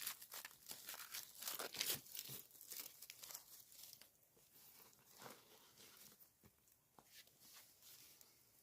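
Rapid crackling and rustling, dense at first and thinning to a few scattered ticks after about four seconds.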